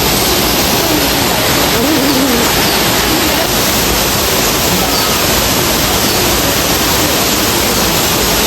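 Loud, steady rush of falling water from a waterfall, an even hiss with no breaks.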